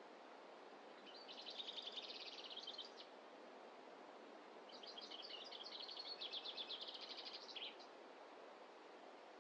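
A small songbird singing two rapid, high trills, the first about two seconds long and the second about three, over a faint steady background hiss.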